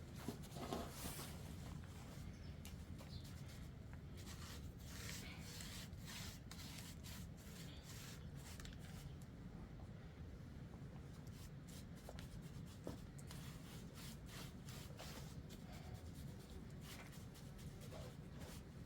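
Faint, scattered scratching and clicking, like handling or rubbing of objects, over a low steady hum.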